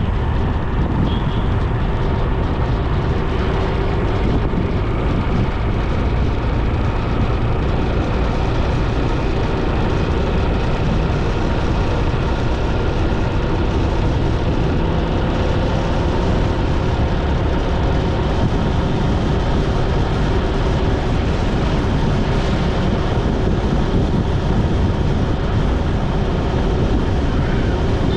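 A motorbike riding along a road: heavy wind rush on the action camera's microphone, with the engine's steady note faintly underneath.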